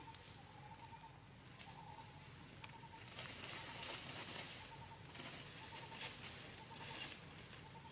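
Quiet outdoor ambience: a bird repeats a short note over and over, with soft rustling and a few light ticks from about three seconds in.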